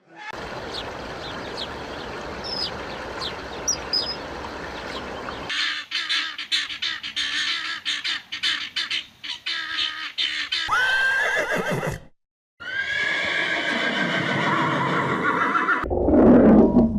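Farm animal calls from a run of short clips. About halfway through, a call rises sharply in pitch. After a brief gap, a longer call with several tones falls away, and a loud low sound follows near the end. Before these, there is a stretch of steady noise and then clicking.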